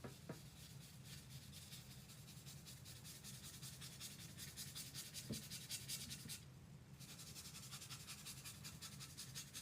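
Fast, repeated scrubbing strokes of paint being worked onto a sanded pine board, several strokes a second, pausing briefly about two-thirds of the way through before going on, over a faint steady hum.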